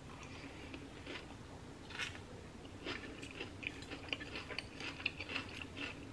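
A person chewing a mouthful of chopped cabbage salad close to the microphone, with irregular small crackles that come more often after about three seconds.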